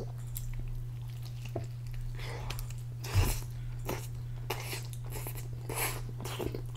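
Close-up eating sounds of a man biting into and chewing a big beef donair wrap in pita: irregular mouth clicks and smacks throughout, one louder one about three seconds in. A steady low hum sits underneath.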